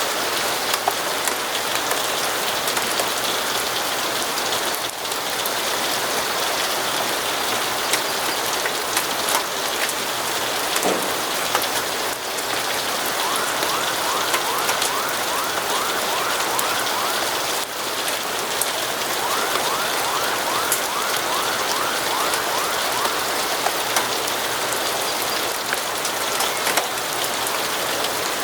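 Steady heavy rainfall, a constant even hiss spotted with sharp drop ticks. Twice in the middle, a few seconds of quick, evenly repeated chirps sound faintly through it.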